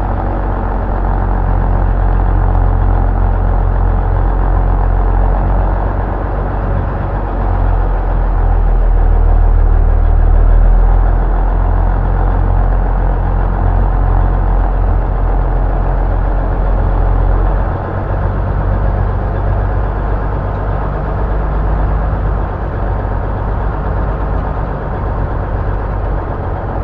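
M923A1 military 5-ton 6x6 truck's Cummins inline-six diesel running with a deep, steady drone. It swells about ten seconds in and eases off about eighteen seconds in.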